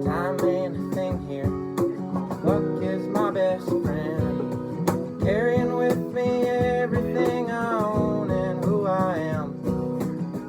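Live acoustic music: a strummed acoustic guitar with a man singing the melody, and cajon and percussion strikes keeping time.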